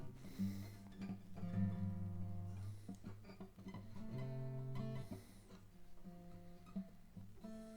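Seagull S6 acoustic guitar with freshly stretched new strings being strummed and plucked a few times, each chord or note left to ring, as a check of whether the strings hold their tuning.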